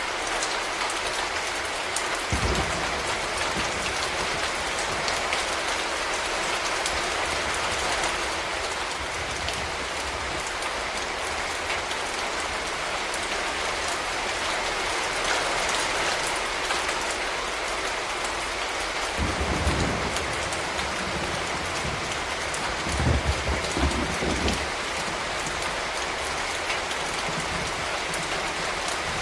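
Steady rain falling, an even hiss throughout. A few dull low thuds come through it: one about two seconds in, one about two-thirds of the way through, and a short cluster just after.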